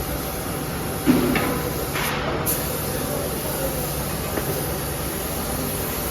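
Steady workshop machinery noise with a sharp metal knock about a second in, another around two seconds in and a fainter one later.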